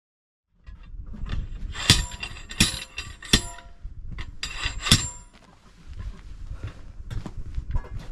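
Metal tools striking and scraping at a tyre to break its bead: four loud clanks that ring on briefly, with lighter knocks and scraping between and after them.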